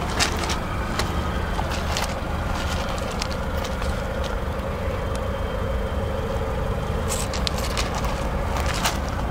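2004 Honda Civic's 1.6-litre four-cylinder engine idling steadily, with a faint steady whine that the reviewer puts down, most likely, to the water pump. Scattered light clicks sound over it, most of them near the end.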